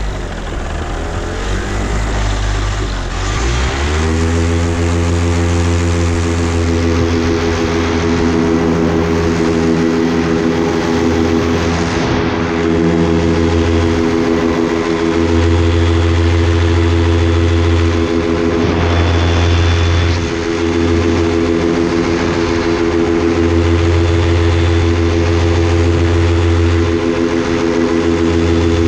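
An engine running steadily, its pitch rising about three to four seconds in and then holding level.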